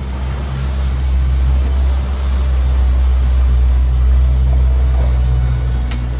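Fishing boat's engine running steadily, a low, even drone, with wash and wind noise over it.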